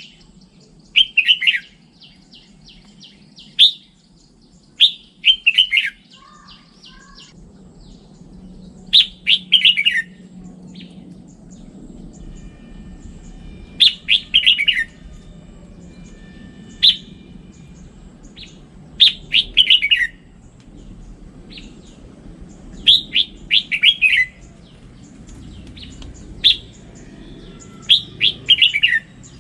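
Red-whiskered bulbul singing: short, bright phrases of quick notes that fall slightly in pitch, repeated every few seconds, with softer chirps in between.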